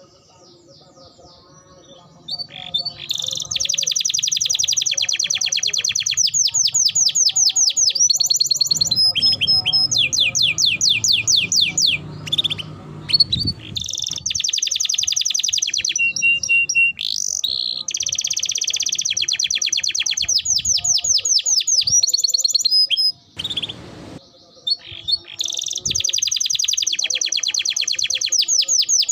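Domestic canary singing: long rolling trills of rapidly repeated notes broken by chirps, after a short pause at the start and with another brief pause in the last third.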